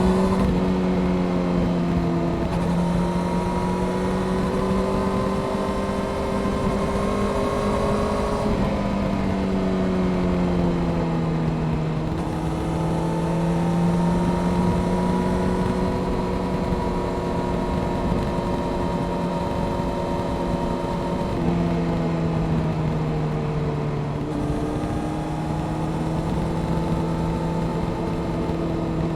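Honda CBR600F Sport's inline-four engine, fitted with a Delkevic exhaust, running under way at steady cruising revs over a rush of wind. The engine note falls gradually about a third of the way in, then settles, with small steps in pitch later on.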